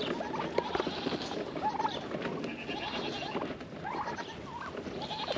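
Farm animals calling: scattered short calls and clucks from goats and poultry, a few at a time, over a steady outdoor background.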